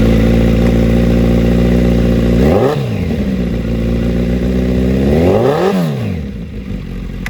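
A 2017 Kawasaki Z900's fuel-injected inline four-cylinder engine idles through a LeoVince aftermarket exhaust. It is revved twice with quick throttle blips that rise and fall back to idle, a few seconds apart.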